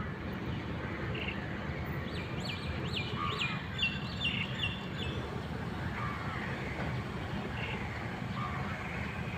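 A bird calling a quick run of about eight sharp whistled notes, the first ones sweeping and the last ones level, from about two seconds in to about five, with a few softer chirps before and after, over a steady low background rumble.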